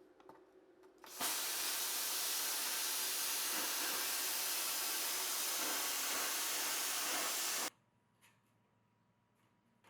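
Plasma cutter running: a steady hiss of air and arc that starts abruptly about a second in, holds for about six seconds and cuts off abruptly.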